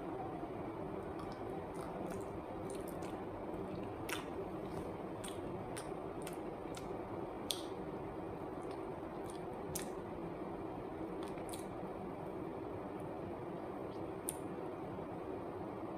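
A soft banana covered in chocolate sauce being bitten and chewed: wet squishing mouth sounds and sharp lip-smack clicks every second or so, over a steady background hum.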